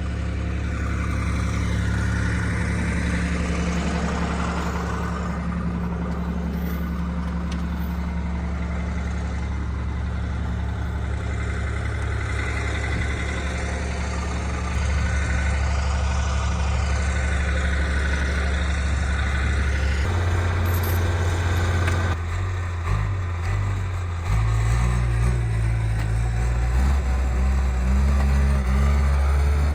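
Heavy equipment engine running steadily. Its pitch steps up about halfway through and then rises and falls repeatedly in the last third, as the machine is worked harder.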